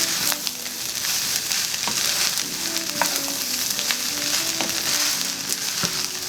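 Fried rice sizzling steadily in a hot oiled pan as it is stir-fried with green peas, carrots and scallions, with occasional sharp knocks of the utensil against the pan.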